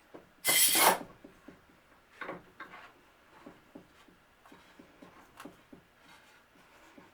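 A short, loud rasping scrape of wood, then a run of light knocks and clicks as wooden cabinet parts and tools are handled on the bench.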